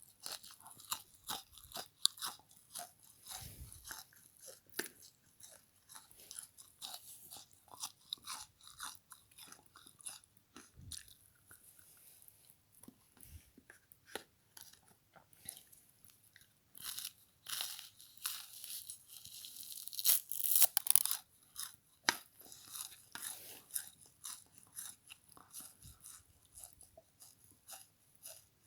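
Close-up chewing and crunching of a frozen bath sponge scrubber: irregular crackly crunches throughout, growing denser and louder for a few seconds past the middle.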